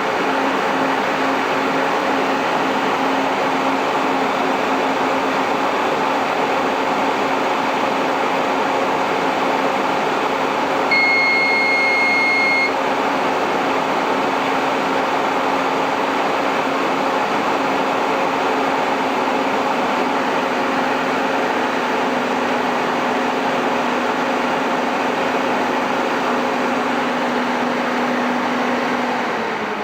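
MJ Research PTC-225 Tetrad thermal cycler running, its cooling fans giving a steady whooshing hum, with one long electronic beep about eleven seconds in. Near the end the hum dips slightly in pitch and fades.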